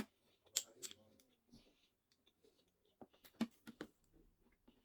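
Close-miked eating sounds: chewing with sharp mouth clicks and smacks in irregular bursts, a few near the start and a quick cluster about three seconds in.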